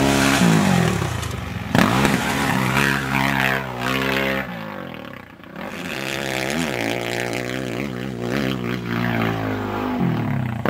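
Honda 450 dirt bike engine held wide open, revs climbing and falling as it shifts through the gears. About five seconds in the throttle comes off briefly, then the engine pulls hard again.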